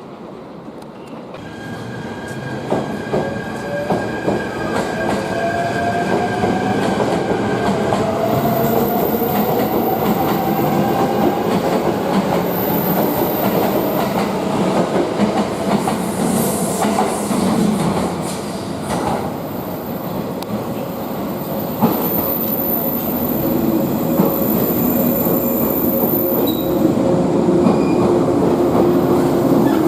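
A train moving through the station, its running noise growing louder over the first few seconds, with a slowly rising tone, high wheel squeal and clicks over the rail joints.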